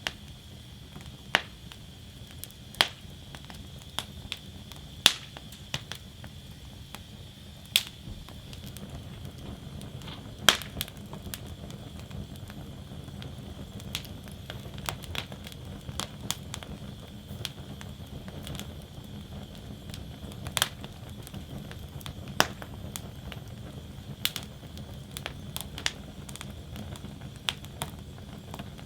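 Wood fire burning in a fire basket, crackling with sharp pops at irregular intervals over a low steady rumble of the flames. The loudest pops come about five and ten seconds in.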